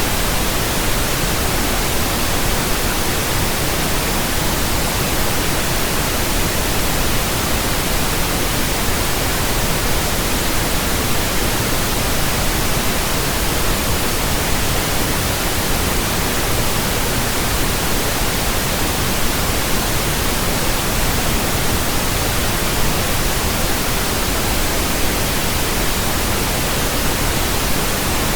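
Steady pink noise, an even, unchanging hiss spread across the whole range from deep rumble to high hiss, from a pink noise generator, played as a burn-in signal for speakers and headphones.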